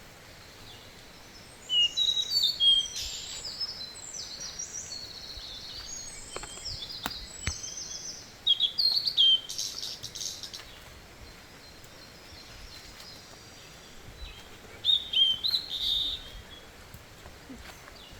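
Forest birds singing: three outbursts of quick high chirps and trills a few seconds apart, over a steady faint background hiss.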